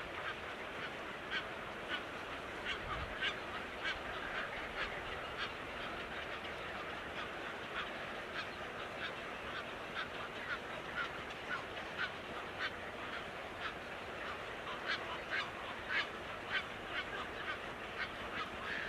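A flock of birds calling: many short, sharp calls, about one or two a second, over a steady background of more birds calling.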